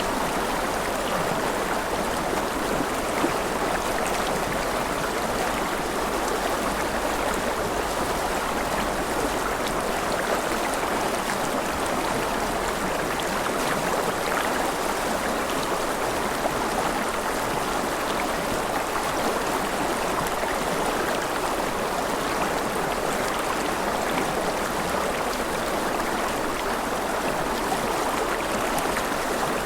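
Forest river flowing: a steady rush and babble of water over stones, with no change in level.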